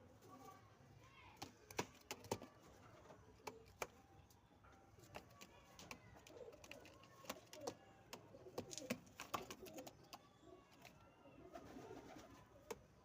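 Domestic pigeons cooing softly, with faint low calls that bend in pitch, over many scattered sharp clicks or taps.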